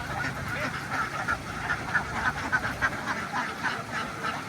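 A large flock of farm ducks quacking, many calls overlapping in a constant chatter.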